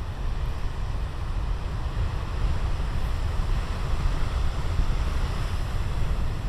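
Big ocean waves breaking and washing onto the shore, with wind buffeting the microphone in a steady low rumble; the surf swells a little past the middle.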